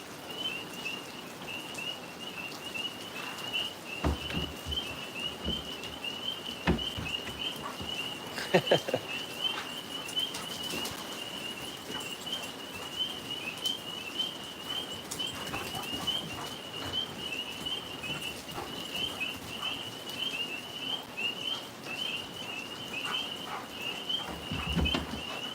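Tree frogs calling in a continuous chorus, a steady high-pitched pulsing trill of many overlapping calls, with a few soft knocks.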